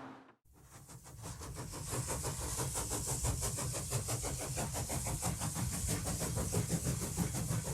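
Train running: a fast, even rhythmic clatter over a low rumble and a high hiss, fading in after a brief silence at the start.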